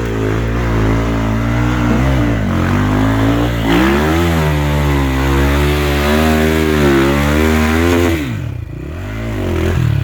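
Enduro motorcycle engine revving loud and uneven, its pitch rising and falling with bursts of throttle. About 8 seconds in, the revs drop sharply, then pick up again.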